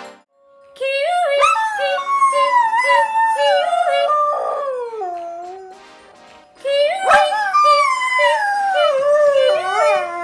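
A dog howling: two long, wavering howls, each sliding down in pitch, the second starting about seven seconds in.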